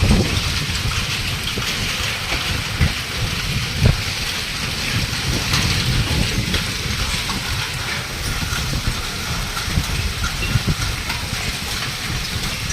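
Heavy rain pouring steadily in a storm, with low wind rumble on the microphone and a dense patter of drops. Two sharper knocks come about three and four seconds in.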